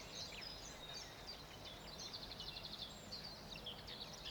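Several small birds singing faintly, many overlapping high chirps and trills, with a rapid trill of repeated notes about halfway through, over a low hiss of background noise.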